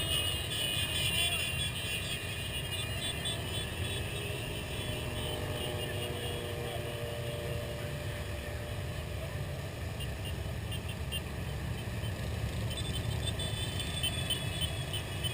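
Motorcycles of a large group ride running in a steady low rumble, with faint voices underneath.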